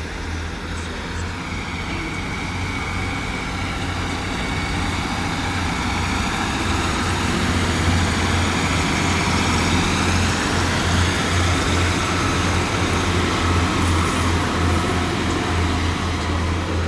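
Diesel passenger train pulling into the platform, its engines running and growing gradually louder as it comes in. Brief high-pitched brake squeals come about fourteen seconds in.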